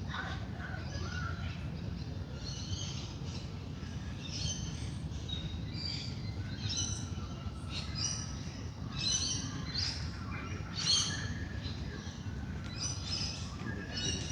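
Dawn chorus of wild birds: many short high calls and chirps repeating and overlapping, over a steady low rumble.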